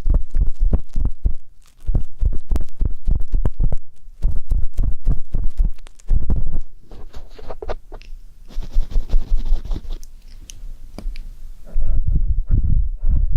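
Ear pick tip scraping and rubbing right at the microphone in ear-cleaning ASMR. It comes in bursts of quick strokes with deep thuds, turning lighter and hissier for a few seconds past the middle.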